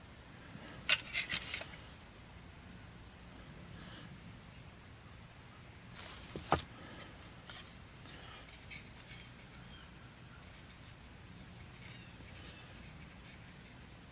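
Steel striker knife struck against chert in flint-and-steel fire lighting: a quick run of about four sharp clicks about a second in, and two more, the loudest, about six seconds in.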